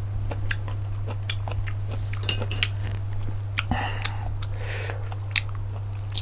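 Close-miked eating of cockles: irregular sharp clicks and wet smacks of biting and chewing, with a steady low electrical hum underneath.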